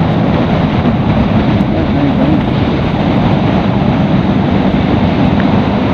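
Bajaj Pulsar NS200's single-cylinder engine running steadily at cruising speed, mixed with loud, even wind rush on the rider's microphone.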